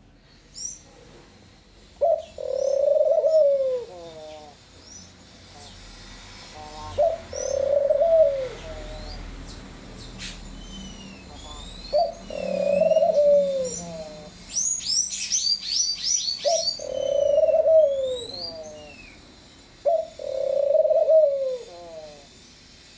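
Pomba-asa-branca (picazuro pigeon) cooing: five low phrases a few seconds apart, each a short note followed by a longer drawn-out coo. Smaller birds chirp high and faintly in the background, in a quick flurry about two-thirds of the way through.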